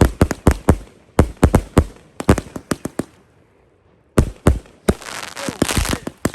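A 168-shot multi-shot firework cake firing quick volleys of sharp bangs, about three to four a second, with a short lull about three seconds in. Two more bangs follow, then a spell of dense crackling near the end.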